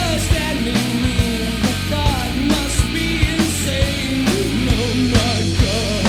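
Rock band playing: drums, bass and electric guitar, with regular drum hits and bending pitched lines over a steady low end.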